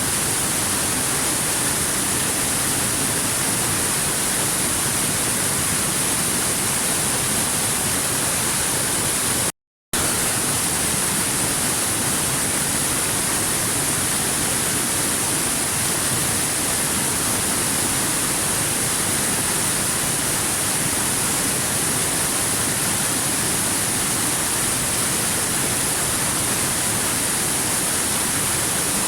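Steady, unbroken rushing of a waterfall, an even hiss strongest in the high range. It drops out to complete silence for a split second about ten seconds in, then resumes.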